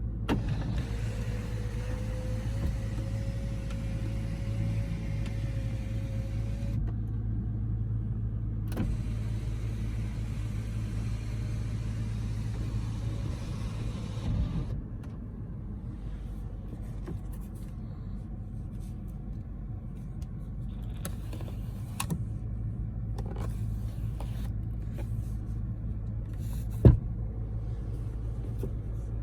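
A Toyota Land Cruiser idling with a steady low hum. A small electric motor whines for about six seconds, rising slightly in pitch, then stops, like a power window or seat motor. A few clicks follow, with one sharp click near the end.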